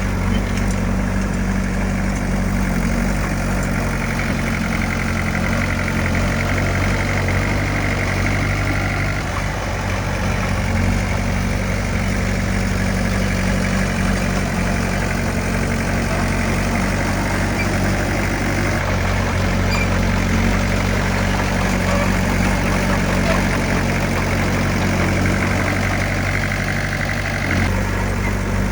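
Diesel engine of heavy earth-moving equipment (bulldozer or dump truck) running steadily at low revs, its note shifting slightly a couple of times.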